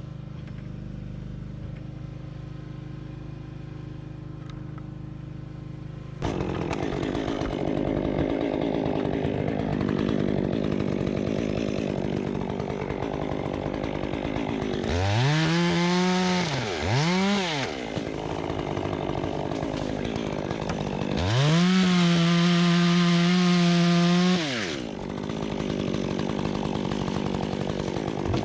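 Two-stroke chainsaw running and revving while limbs are cut from a hung-up tree. It gives a quick rev to full throttle with a second short blip about halfway through, then a longer full-throttle rev held for about three seconds before dropping back.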